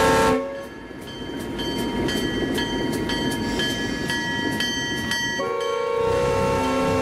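Alco RS-1 locomotive's multi-note air horn sounding, cutting off just after the start and blowing again about five and a half seconds in. In between, the rumble of passing passenger cars with steady metallic clanging about twice a second.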